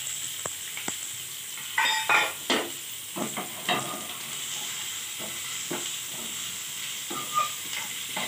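Raw mango pieces sizzling in hot ghee with cumin in a non-stick frying pan, stirred with a wooden spatula. A steady sizzle runs under irregular scrapes and knocks of the spatula against the pan, the loudest about two seconds in.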